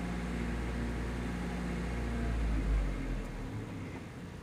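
Car engine idling, heard from inside the cabin as a steady low hum that eases off about three and a half seconds in.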